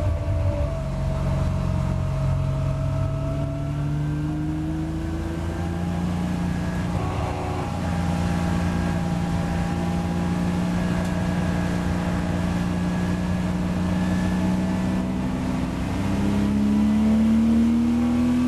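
In-car sound of a Porsche Boxster race car's flat-six engine pulling under light throttle, its note climbing slowly as the car gathers speed, then rising more steeply and a little louder near the end.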